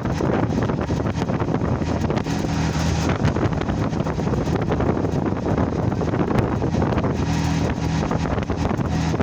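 Wind buffeting the microphone of a moving vehicle, over the low, steady hum of the engine and road.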